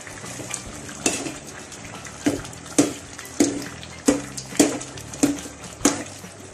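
A metal spoon or ladle knocking and scraping against the side of an aluminium cooking pot as cabbage is stirred into noodle soup: about eight sharp clinks, roughly one every half second, starting about a second in.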